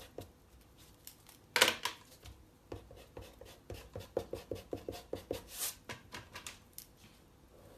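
Eraser rubbing back and forth on drawing paper in quick strokes, about five a second, taking out pencil lines. There is one louder single stroke about a second and a half in.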